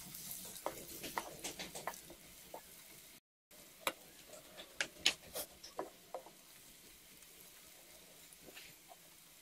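Sliced onions and garlic paste sizzling in oil in a metal pot while a wooden spatula stirs them, scraping and tapping against the pot in quick clusters. The sound drops out briefly a little after three seconds in.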